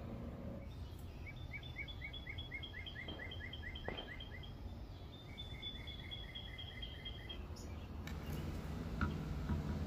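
A bird singing two runs of quick repeated chirps, about five a second, over a low rumble of outdoor background noise, with a few faint knocks near the end.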